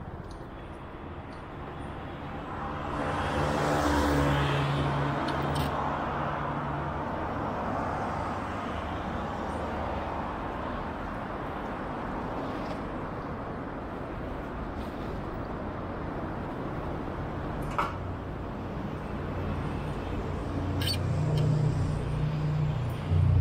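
City road traffic: vehicle engines running steadily, with a vehicle passing close and louder about three to five seconds in, and a couple of short sharp clicks later on.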